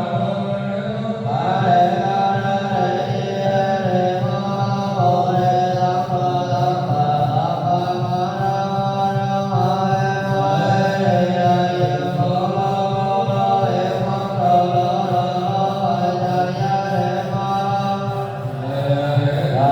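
Buddhist chanting: voices holding a slow, sustained melody whose notes glide gently from one pitch to the next.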